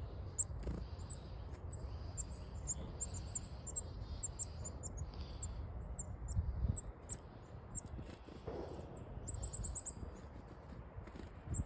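Chickadees calling: many short, high chirps scattered throughout, with a quick run of notes about nine seconds in.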